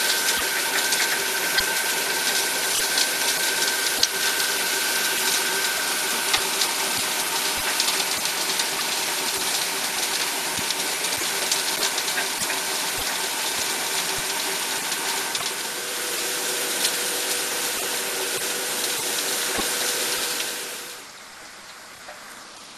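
Sand washing machine running: a steady hissing rush with a few steady machine tones and scattered clicks. It drops sharply in level about 21 seconds in.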